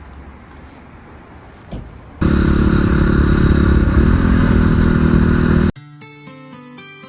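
Honda CRF250R's single-cylinder four-stroke engine running loud and close for about three and a half seconds, its pitch rising and falling slightly midway, after a low steady rumble. It cuts off suddenly into acoustic guitar music.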